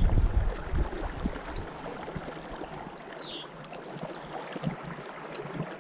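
Steady rush of flowing river water, with wind buffeting the microphone that fades out within the first second or so. A bird gives one short, quickly falling whistled note about three seconds in.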